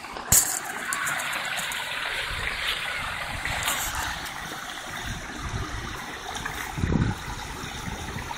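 Steady rush of running water, with a sharp click just after the start and a brief low rumble near the end.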